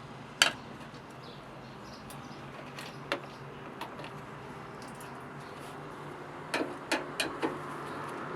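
Scattered sharp clicks and knocks, one loud one about half a second in and a quick run of four near the end, over a faint steady hum.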